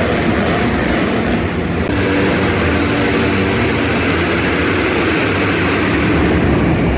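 Several motocross dirt bike engines running together in an indoor arena, a steady loud din with no single bike standing out.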